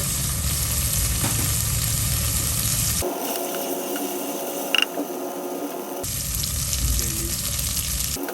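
Onion, ginger-garlic paste and spices sizzling as they fry in oil in a pan. The sizzling stops abruptly about three seconds in and starts again about six seconds in; in between there is a steady hum.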